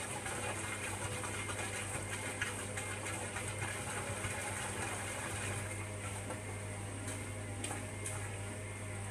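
Hoover Logic washing machine running through a cotton 60 wash: a steady motor hum with a few faint clicks and rattles, the rattling noise easing slightly about halfway through.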